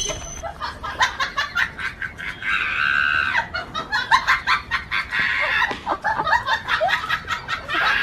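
Domestic fowl clucking: a fast run of short calls, with a longer squawking call about three seconds in and another about five seconds in.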